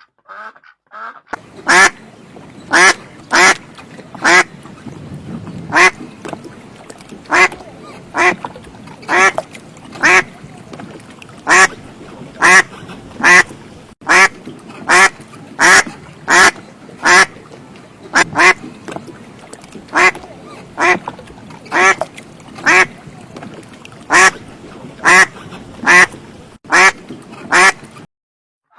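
A duck quacking: loud single quacks roughly once a second, with a few brief pauses, over a steady faint background noise. A couple of fainter calls come before the loud quacking starts.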